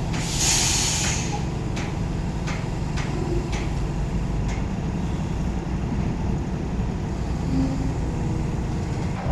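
Container truck's diesel engine running low and steady, with a short hiss of released air about half a second in. Faint ticks come about every three quarters of a second.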